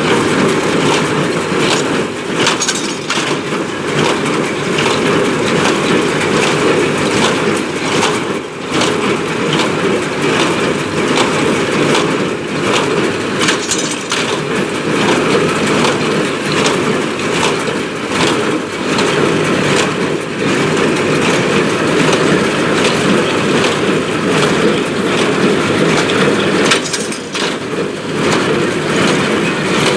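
Ford 5000 tractor running a New Holland BC5060 small square baler. There is a steady loud mechanical din with frequent short knocks and clacks from the baler's working parts as it packs hay.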